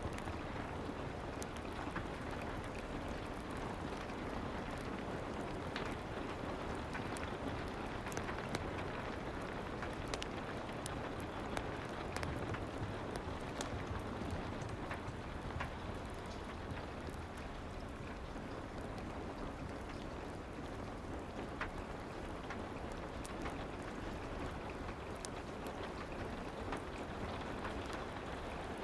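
Steady rain ambience, an even hiss with scattered sharp ticks and pops through it.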